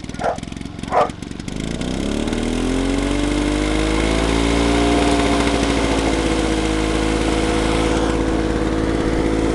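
Victa two-stroke rotary lawn mower engine running, its speed rising over a couple of seconds and then holding steady at high revs, with new blades fitted. A dog barks twice near the start.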